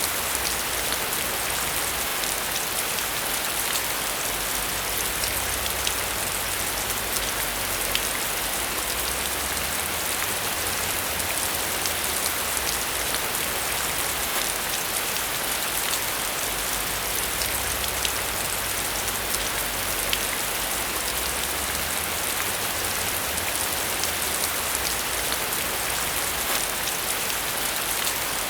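Steady rain falling on a surface, a dense hiss with many individual drops ticking through it and a faint low rumble underneath.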